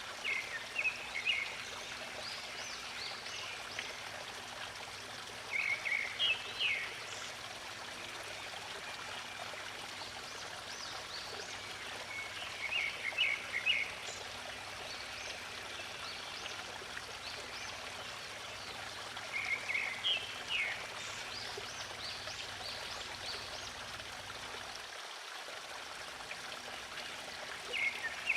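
Steady flowing water of a stream, with a bird calling in short bursts of quick high chirps about every six or seven seconds.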